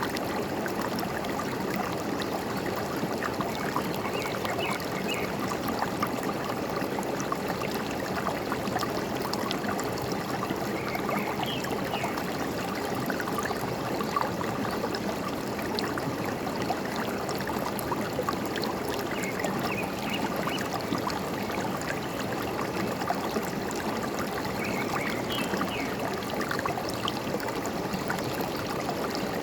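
A forest stream flowing steadily, with a bird's short high chirps breaking in faintly about four times.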